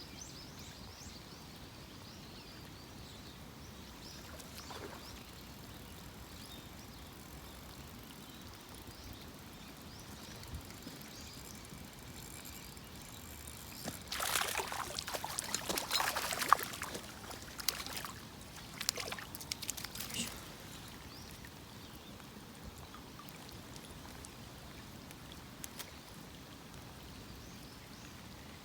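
Steady rain hiss over a pond; about halfway through, several seconds of sharp splashing and crackling water, the loudest part, then the steady rain again.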